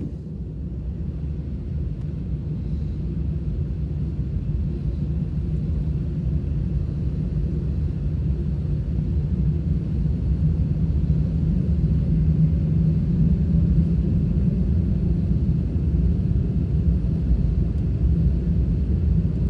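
Airbus A320 jet engines and airframe heard from inside the cabin on the ground: a steady low rumble and hum that slowly grows louder.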